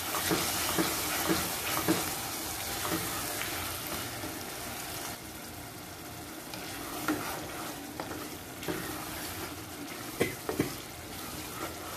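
Green chili sambal frying in oil in a pot, sizzling steadily while a spatula stirs it, with soft scrapes and knocks of the spatula against the pot. The sizzle eases a little about five seconds in.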